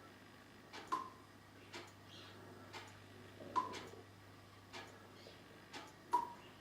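Faint, regular ticking, about one tick a second, some ticks with a brief ringing tone, over a low steady hum.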